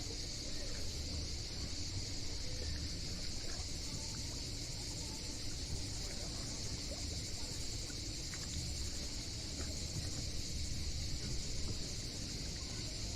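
Steady high-pitched insect chorus, unbroken throughout, over a low outdoor rumble.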